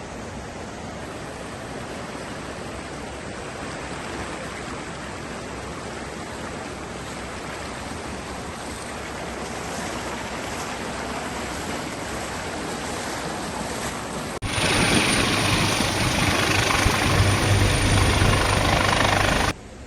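Rushing floodwater as a steady noise. About three-quarters of the way through, a sudden cut brings in a much louder steady engine-like noise with a low hum for about five seconds, which stops abruptly.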